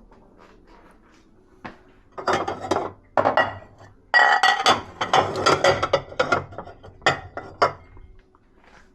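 Dishes and cutlery clinking and clattering as they are handled at a dishwasher. It comes in a run of knocks and clinks starting about two seconds in and fading near the end.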